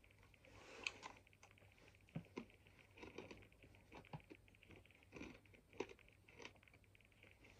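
Quiet chewing of sweet potato crisps with the mouth closed: irregular small crunches as the crisp is bitten and chewed.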